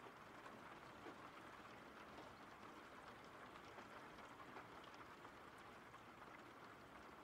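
Very faint steady rain: an even soft hiss with scattered light drops.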